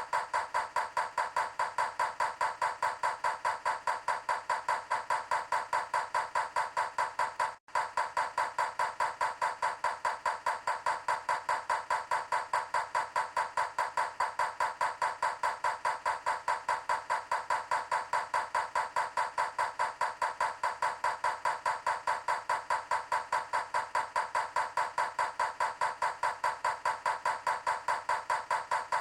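Steady, rapid, even ticking, about four clicks a second, with a brief gap about eight seconds in.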